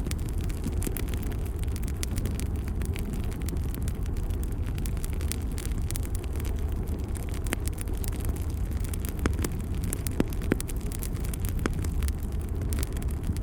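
Wood fire burning in a fireplace: a steady low rumble of flame with frequent sharp crackles and pops, a few louder pops in the second half.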